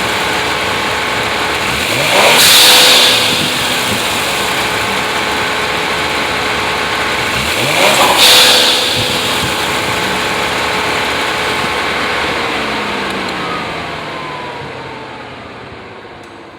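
Kia Stinger's twin-turbo V6 running under the hood, blipped twice, each rev followed by a loud hiss of the aftermarket ADD W1 twin blow-off valves venting boost as the throttle closes. Near the end the engine note falls and fades.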